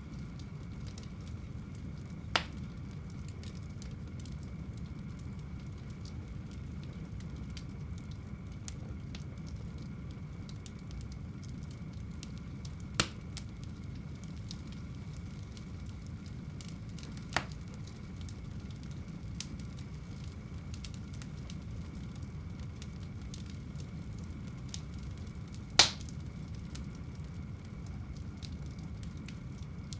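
Fire burning in a home fireplace: a steady low rumble of flames with a light, continual crackle and four sharp pops spread through, the loudest near the end.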